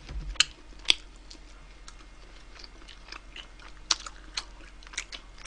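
Close-miked chewing and biting while eating wood-fired roast chicken: scattered, irregular mouth clicks and smacks, a few of them louder.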